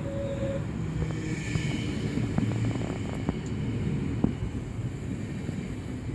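DB class 425 electric multiple unit running, a steady low rumble with a scattering of sharp clicks and knocks through the middle and a faint high whine.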